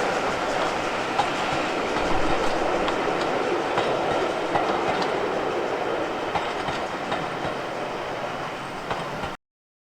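A train's wheels running on the rails with a steady rumble and scattered clicks over the rail joints, slowly fading, then cutting off suddenly near the end.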